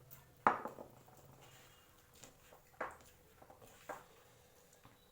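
A few scattered sharp clicks and taps from people eating biryani off plates, the loudest about half a second in and two more near three and four seconds in.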